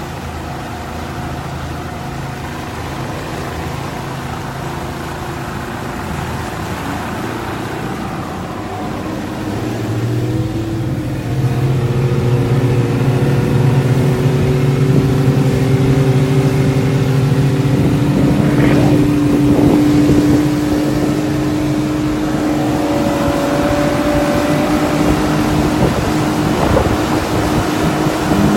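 Motor launch's engine running, speeding up about a third of the way in with its pitch and loudness rising, then holding steady at the higher speed.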